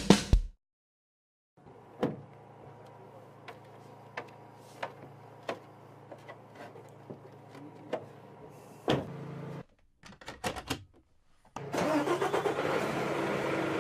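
Vehicle sounds: a faint steady low hum with scattered clicks, a short louder burst about nine seconds in, then louder, noisier running from about twelve seconds in.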